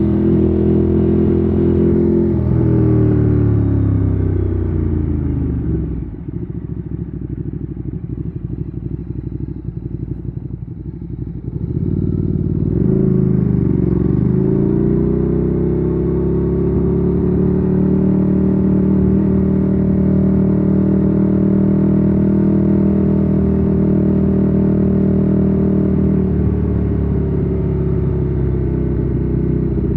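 Ducati Streetfighter 848's L-twin engine through a Termignoni exhaust, heard from the rider's seat. Its pitch falls as the bike slows over the first few seconds, then it idles more quietly for about six seconds, pulls away with rising revs about twelve seconds in, and holds a steady cruise.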